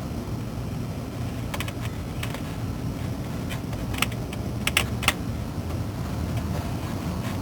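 Scattered light clicks and taps, about seven at irregular spacing, from hand tools and metal parts being handled during starter work. A steady low rumble runs underneath.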